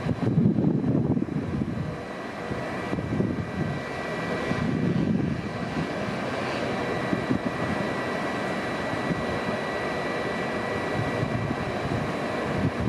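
Train running at the station: a steady low rumble that swells and eases, under a high whine held on several steady tones.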